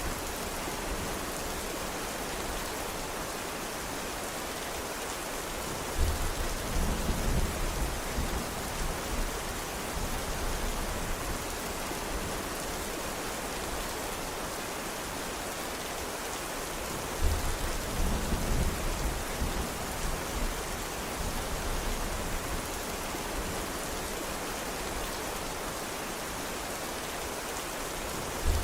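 Steady rain falling, an even hiss throughout. Twice, about six seconds in and again past the middle, a low rumble of thunder starts suddenly and rolls on for a few seconds.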